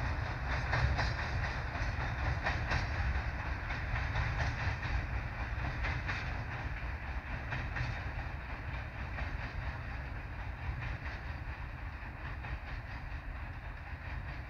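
Empty steel hopper wagons of a long freight train rolling away on the track, wheels clicking over the rail joints in a clickety-clack. The rumble slowly fades as the end of the train recedes.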